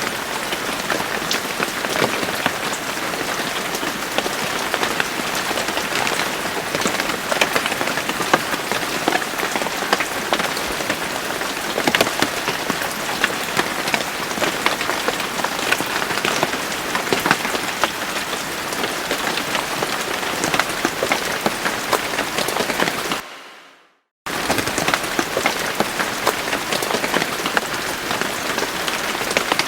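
Steady rain with many distinct drop hits. About 23 seconds in it fades to silence for about a second, then comes back abruptly, like a splice in the recording.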